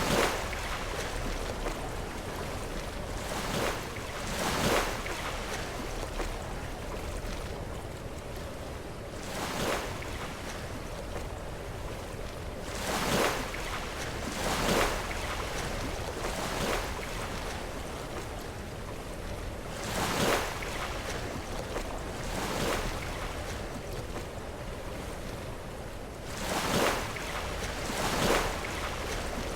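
Sea waves breaking against rocks, each crash a short surge of spray over a steady wash of surf, coming irregularly every few seconds.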